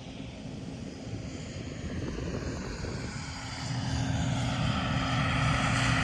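A vehicle engine building up speed, its sound swelling and rising in pitch over a few seconds, then running steadily with a constant hum.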